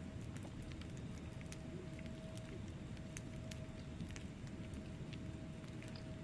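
Wood fire burning in a fireplace: logs crackling with frequent sharp, irregular pops over a steady low rush of flame, with a faint steady tone underneath.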